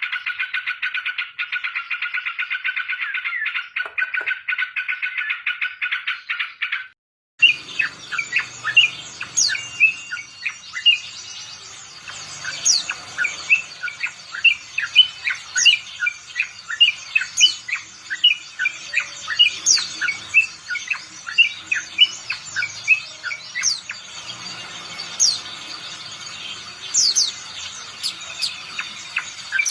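Yellow-vented bulbul singing: a fast, even trill for about seven seconds, then after a short break a long run of short, sharp chirps and quick whistled notes.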